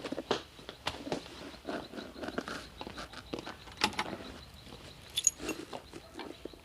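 Irregular knocks, clicks and rustles of someone moving about and handling things, with a brief metallic jingle about five seconds in.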